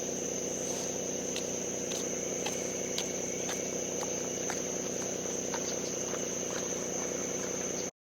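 An engine idling steadily under a constant high insect drone, like crickets, with a few faint clicks. Everything cuts off suddenly near the end.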